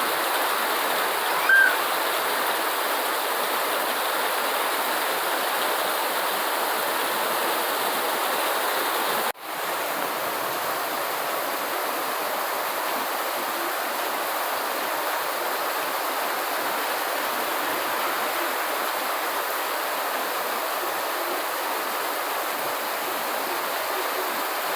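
Steady rain sound, an even hiss, with a short high tone about a second and a half in and a split-second dropout about nine seconds in.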